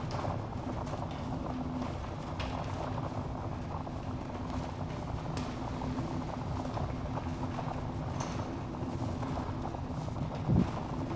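Wood fire burning in a fireplace, a steady low rumble with scattered sharp crackles and pops. A louder, duller knock comes near the end.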